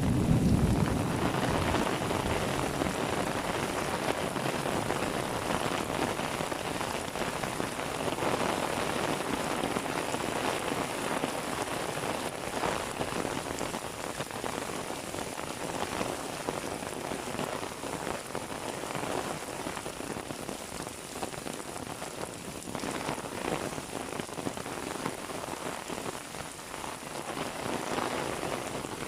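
Heavy rain falling steadily on hard surfaces, with a brief low rumble in the first second.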